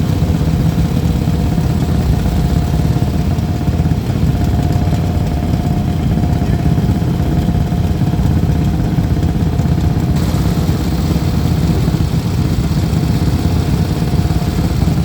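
Motorcycle engines idling steadily, with a continuous low rumble and no revving.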